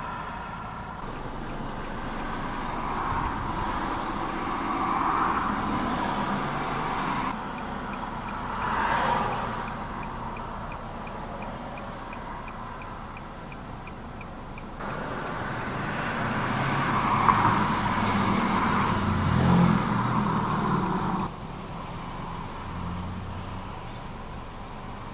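Outdoor street traffic: the hum of passing cars and road noise, with a vehicle swelling past about nine seconds in and a louder stretch of traffic later on. The background changes abruptly three times.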